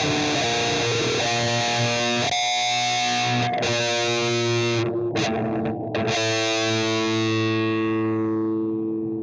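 Distorted electric guitar music: sustained chords that change every second or so, the last one held and fading away.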